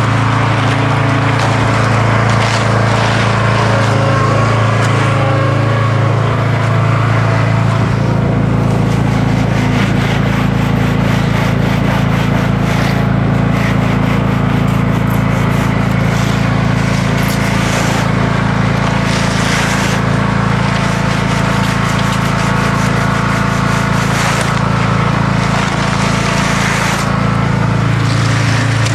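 Engine running steadily at a constant speed on a concrete pour, with short scrapes of tools through wet concrete over it.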